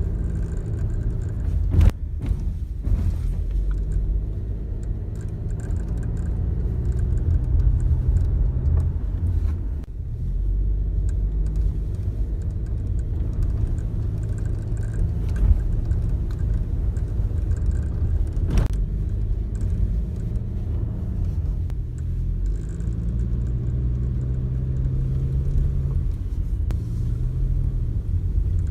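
Toyota Innova Touring Sport (petrol automatic) heard from inside the cabin while accelerating on the road, with a steady low engine and road rumble. Under it is a rattle or groaning noise from the left A/C vent area of the dashboard, and there are two sharp knocks, one about two seconds in and one about eighteen seconds in.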